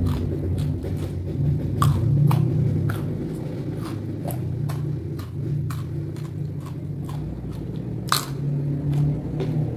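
Close-up mouth sounds of chewing and biting crunchy raw food, with many irregular crisp crunches, the sharpest about 8 seconds in. A steady low hum runs underneath.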